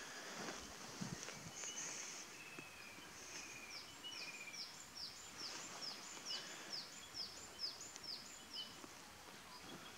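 A small bird singing faintly: a run of about a dozen high, quick downward-sliding notes, about three a second, starting about three seconds in and stopping about eight seconds in, over faint outdoor background noise.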